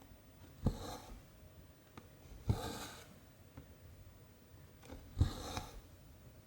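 Cross-stitch needle tapping through 14-count canvas, each stab followed by the cotton thread rustling as it is drawn through. This happens three times, about two seconds apart.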